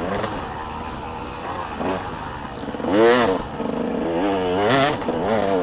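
Motocross bike engines revving as the bikes race past, pitch climbing and dropping with each throttle change; the loudest, closest bike comes about three seconds in.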